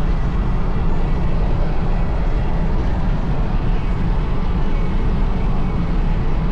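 Steady low rumble of a van on the move: road and engine noise that holds an even level with no breaks.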